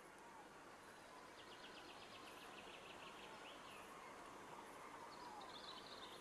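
Faint songbird singing in woodland: a quick trill of repeated high notes from about a second and a half in, and a few short twittering chirps near the end, over a quiet background hiss.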